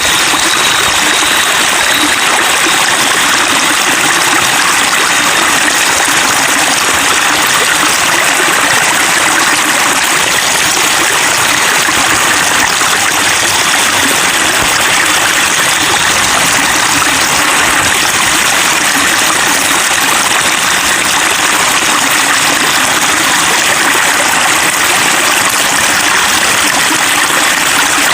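Flowing water babbling steadily: a constant, even rush and splashing of a running stream.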